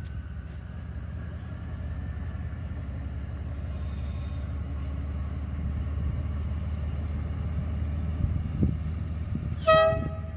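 D19E diesel-electric locomotive approaching, its engine rumble growing steadily louder, then one short horn blast near the end.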